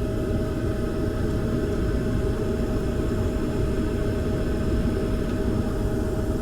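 A 96% high-efficiency gas furnace running steadily while firing: a low rumble with a constant hum riding on it.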